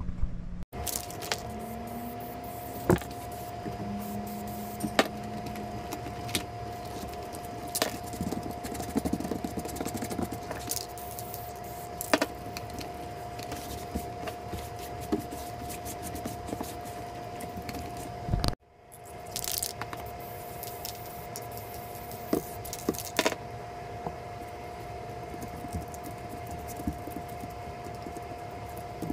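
Scattered light clicks, taps and rattles over a steady background hum, from foam floor pieces being handled, fitted and pressed down on a boat deck. The hum drops out abruptly twice, under a second in and about two-thirds through.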